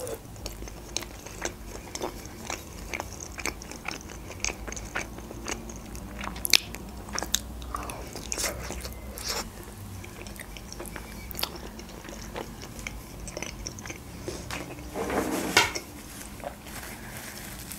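Close-miked biting and chewing of khinkali (Georgian meat dumplings): wet mouth clicks and smacks at an irregular pace, with a brief louder mouth sound about fifteen seconds in.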